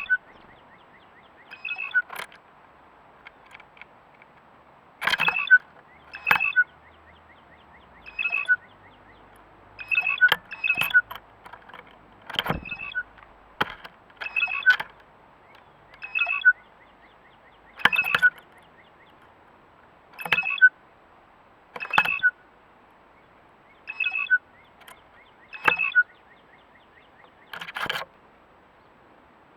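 A bird pecking hard in short bursts of sharp taps, one burst every second or two.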